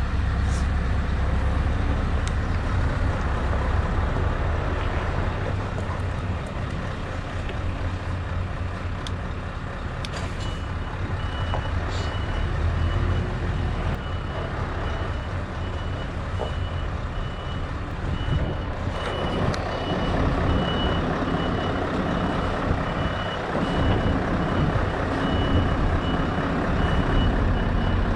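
Scania V8 truck engine running with a steady low rumble, and from about ten seconds in a reversing alarm beeping in a regular, repeated high tone as the truck backs up.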